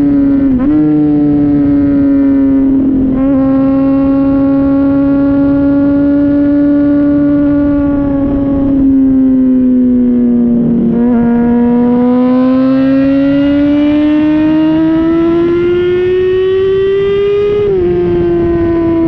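Honda CBR600RR's inline-four engine heard close at its Yoshimura RS-5 exhaust while riding. The note holds steady with brief dips about half a second and three seconds in, sags to a low around ten seconds, then climbs steadily in pitch before dropping suddenly near the end.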